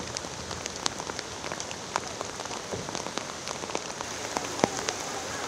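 Steady rain falling on floodwater: a constant hiss with scattered louder drop ticks.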